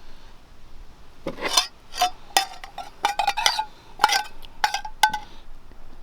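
Metal utensils clinking against dishware: a series of about a dozen irregular clinks, some with a short ring, starting about a second in and stopping a little after five seconds.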